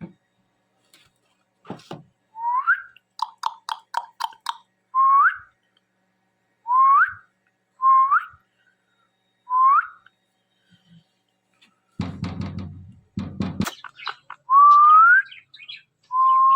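Indian ringneck parrot whistling: a series of short whistles that slide upward, with a quick run of clipped notes about three seconds in and a longer rising whistle near the end. Two dull thumps sound about twelve seconds in.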